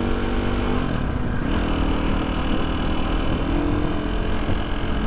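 KTM 450 SX-F single-cylinder four-stroke engine running steadily at idle. The rocker arms can be heard working, while the squeal from its balancer shaft has mostly stopped.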